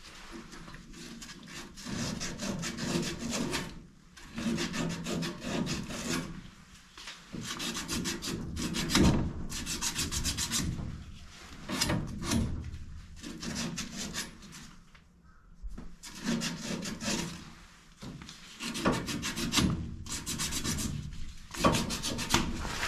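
Rough rasping, rubbing strokes made by hand, about a second each and repeated with short pauses, like a surface being scrubbed or sanded.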